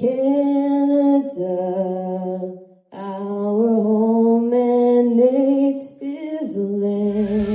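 A single voice singing slowly without accompaniment, holding long notes, with a short break between phrases. Rock music with drums and bass comes in near the end.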